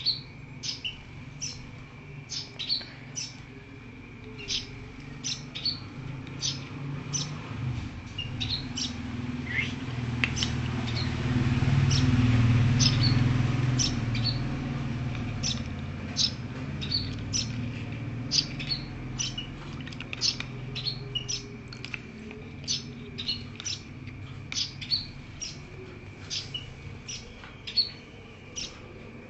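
Emprit (munia) birds chirping in short, high cheeps, one or two a second throughout. A low rumble swells in the middle and then fades.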